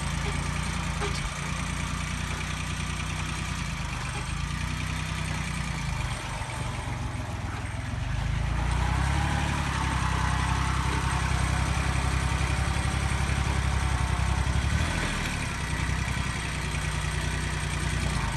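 Yanmar YM169D compact diesel tractor engine running steadily while plowing, growing louder about halfway through and easing off again near the end.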